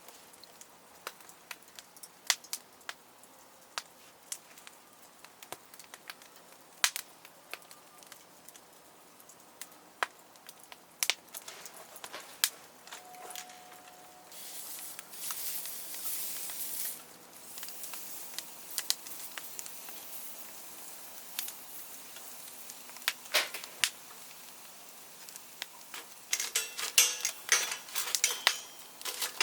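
Wood campfire crackling, with sharp pops scattered at irregular intervals. About halfway there is a hiss lasting a couple of seconds, and near the end a quick run of clicks and clatter.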